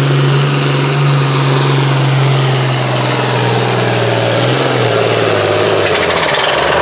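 Farm-stock pulling tractor's diesel engine running hard under load as it pulls the weight sled. Its steady drone drops in pitch about two-thirds of the way through.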